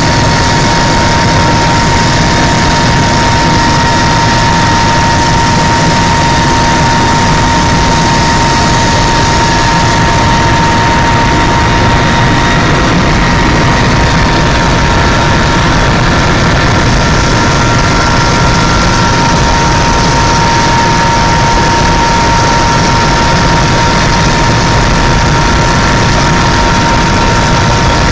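Helicopter in steady flight: loud, even engine noise with a steady high whine over it.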